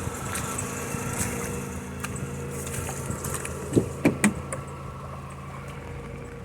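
Vehicle engine running steadily with a low, even hum, with a few short clicks about four seconds in.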